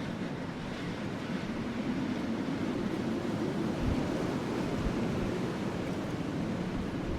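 Steady rushing wind mixed with a burning wood fire, with only a few faint pops.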